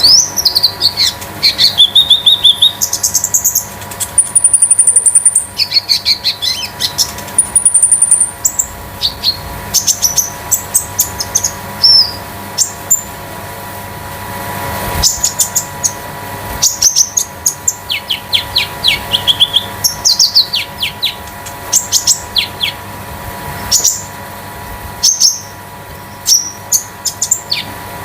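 A konin songbird singing continuously: rapid high chirps and quick trilled phrases, broken by a couple of short high whistled notes in the first third. A faint steady hum lies underneath.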